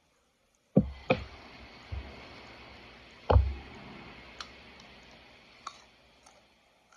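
Several sharp knocks with a heavy thump, four of them in the first few seconds and the loudest about three seconds in, followed by a few fainter clicks as the sound dies down.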